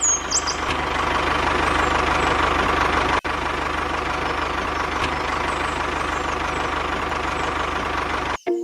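Small tractor engine running steadily with an even low chug, broken off for an instant about three seconds in.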